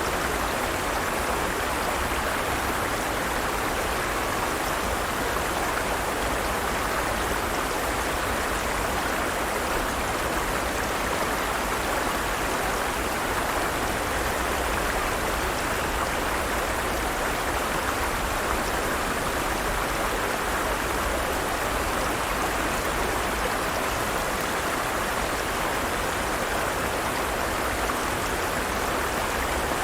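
Forest stream running: water flowing over rocks in a steady, even rush.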